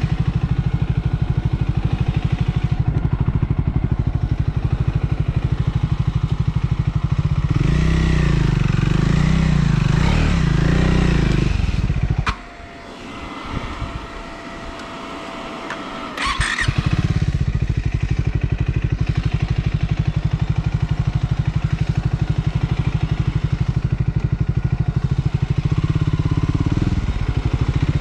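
Triumph Scrambler 400 X's single-cylinder engine running under way, louder and rising and falling for a few seconds midway. About 12 seconds in the engine sound drops away suddenly for about four seconds, then returns after a short sharp noise and runs steadily again.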